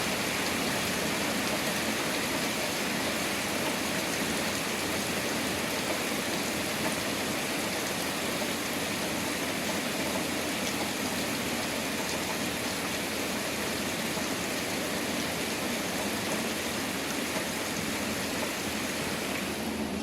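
Steady heavy rain from a thunderstorm, an even hiss of downpour with no clear thunder claps.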